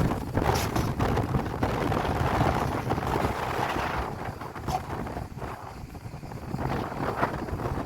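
Wind buffeting the microphone over the steady noise of a small light-railway locomotive running, with a few short sharp knocks about half a second in and again near five and seven seconds.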